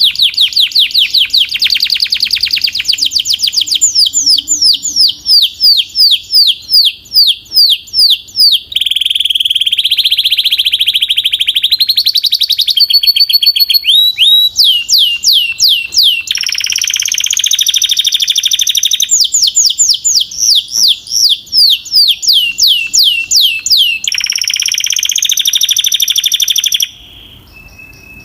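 Domestic canary singing a long, loud song of rapidly repeated phrases. Trills of quick, evenly spaced downward-sweeping notes alternate with dense buzzy rolls, changing every few seconds. The song breaks off abruptly near the end.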